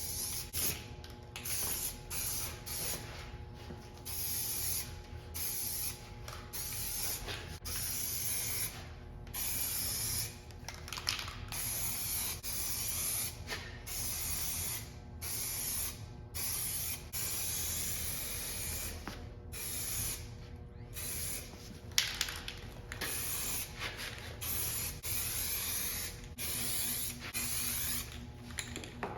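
Aerosol spray paint can being sprayed onto car body panels in short passes: bursts of hiss, each about half a second to two seconds long, stopping and starting again throughout, with a sharp click about 22 seconds in.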